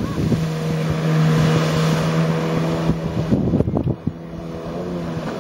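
Jet ski engine running at a steady pitch over a loud rush of spray and wind; the rush falls away about three seconds in while the engine tone carries on.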